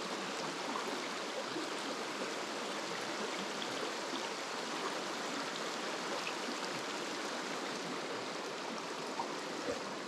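Mountain stream water running steadily, an even rushing hiss.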